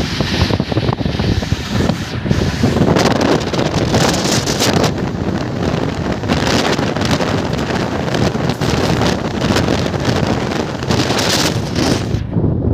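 Wind buffeting the microphone over the running noise of a moving express train. The high hiss drops away sharply near the end.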